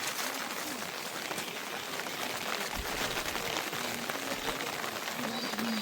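Steady rain falling, a dense spread of many small drops hitting surfaces.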